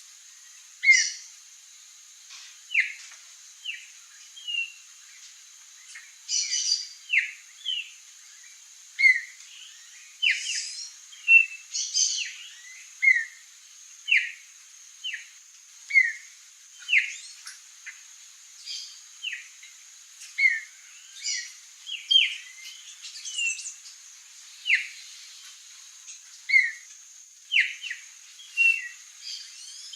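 Songbird giving short, sharp calls again and again, roughly one a second with brief irregular pauses, over a steady high hiss.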